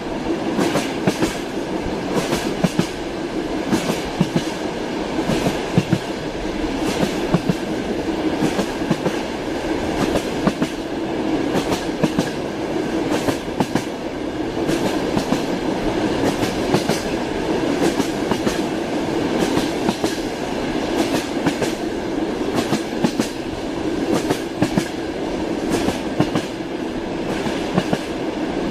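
Train wheels clattering on the rails: a steady rolling rumble with many irregular sharp clicks and knocks as the wheels cross rail joints.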